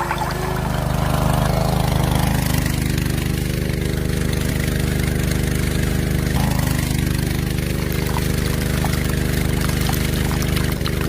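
Small engine running steadily at an even, unchanging speed, with a fast regular pulse.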